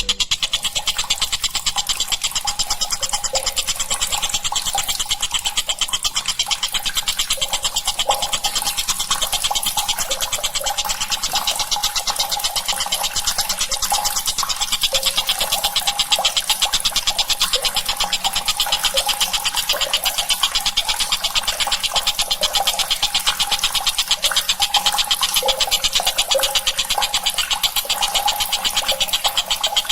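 Tengkek buto kingfisher call played as a masteran training recording: a continuous, very fast high-pitched rattling trill, with short lower notes scattered through it.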